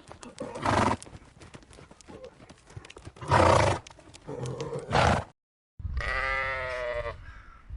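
A horse's hooves clip-clop, with three short, loud, noisy snorts about a second apart or more. After a brief gap a sheep gives one long, wavering bleat.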